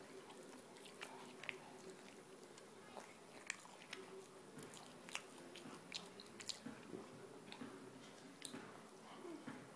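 Faint close-up chewing of pizza: irregular small wet clicks and smacks of the mouth.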